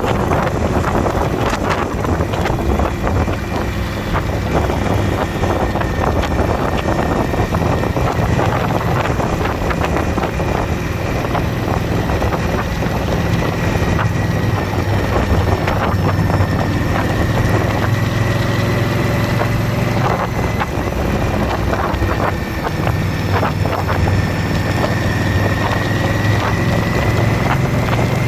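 Indian motorcycle's V-twin engine running steadily at road speed, with wind buffeting the microphone; a thin whine rises slightly in pitch near the end.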